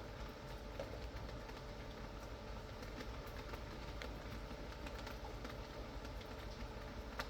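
Steady rain with scattered drops tapping at irregular moments.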